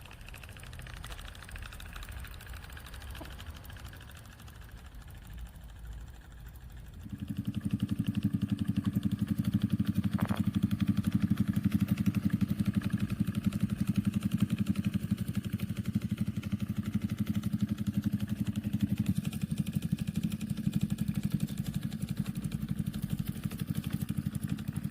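24-volt electric solenoid engine running, quieter at first; about seven seconds in it suddenly gets much louder, settling into a fast, even clatter of rapid strokes that holds steady.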